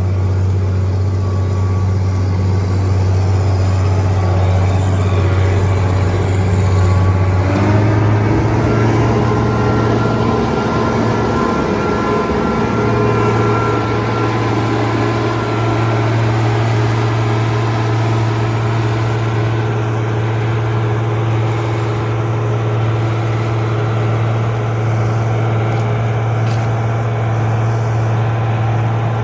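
Farm machinery engine running steadily under load. About a third of the way in its note shifts slightly higher and a set of higher steady whining tones joins in, then it holds steady.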